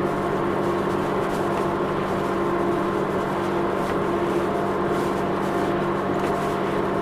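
Steady road and engine noise heard inside a car's cabin at highway speed, with a constant low hum running under the tyre noise.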